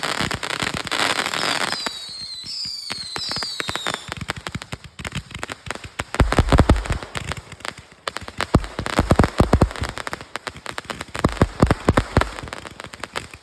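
Consumer fireworks going off: whistles mixed with crackling over the first few seconds, then dense crackling pops, with clusters of heavier bangs from about six seconds in.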